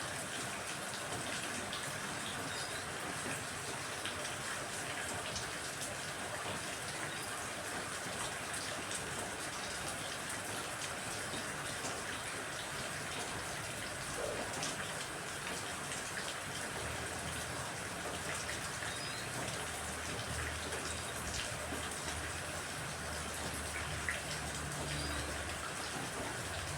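Steady rain falling, an even hiss, with a low rumble coming in about two-thirds of the way through.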